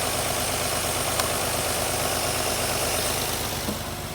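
Infiniti I30's V6 engine idling with a misfire on one cylinder, which the technician traces to a dead ignition coil. A single sharp tick sounds about a second in.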